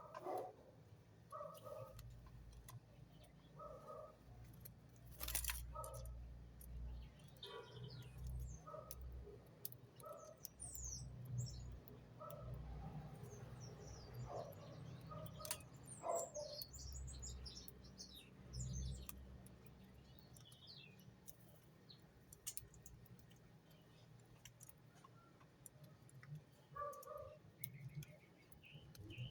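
Birds chirping: short calls repeating every second or two, with higher, quicker chirps between them and scattered sharp clicks.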